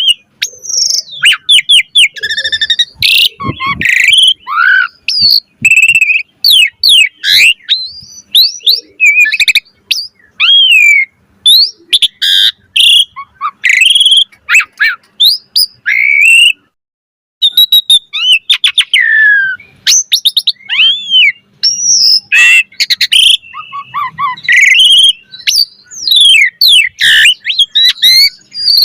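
Asian pied starling (jalak suren) in full, energetic song: a fast, unbroken run of varied whistles, rising and falling glides and harsh chattering notes, with a short pause about 17 seconds in.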